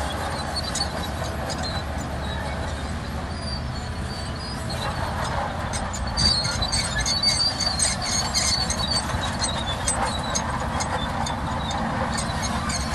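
Crawler bulldozer working: steel tracks squealing and clanking over the steady drone of its diesel engine. The squeals are loudest in the second half.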